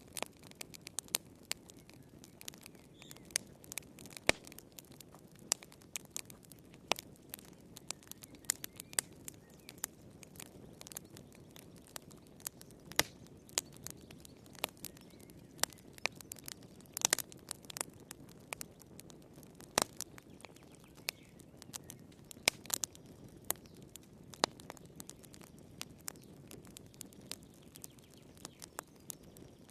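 Wood fire crackling in a fireplace: irregular sharp pops and snaps, several a second and some much louder than others, over a soft low rush of the flames.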